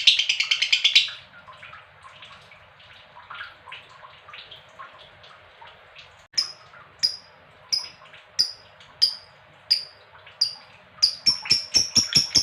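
Lovebird calling: a loud rapid chattering trill cuts off about a second in, followed by soft twittering. From about halfway, sharp high calls come about one and a half a second and quicken into a fast run near the end, building toward the long 'ngekek' trill.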